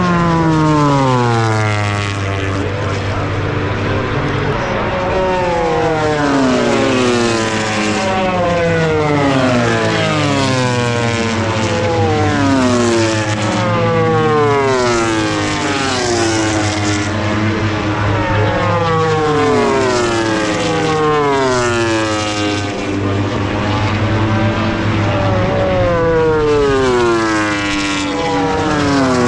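MotoGP racing motorcycle's 1000 cc four-cylinder engine at high revs, its pitch repeatedly sweeping down and jumping back up every couple of seconds through gear changes.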